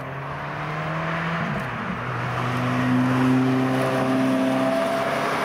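Ferrari F430 Spider's V8 engine as the car drives past on the track. The engine note wavers about a second and a half in, then climbs slowly in pitch and grows louder.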